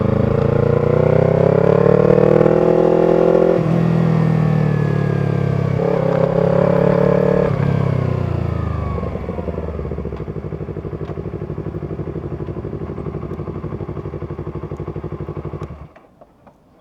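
Yamaha R25's 250 cc parallel-twin engine through a B-Pro aftermarket exhaust, revving up and down through gear changes. It then drops to a steady, evenly pulsing low-rev note and cuts off abruptly shortly before the end.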